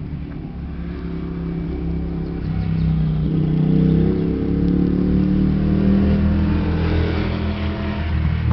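A motor vehicle's engine running, rising in pitch and getting louder about three seconds in, then easing off toward the end.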